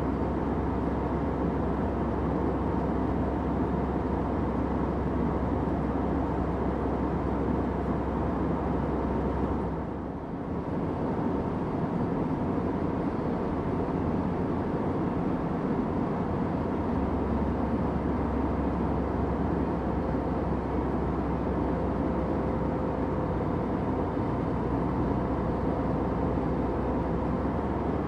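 Steady airplane cabin noise: a constant low rush of engine and air sound. It dips briefly about ten seconds in, and the deepest rumble stays weaker for a few seconds afterwards.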